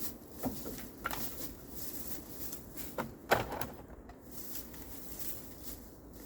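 A few scattered knocks and clunks of things being handled, the loudest a little past three seconds in.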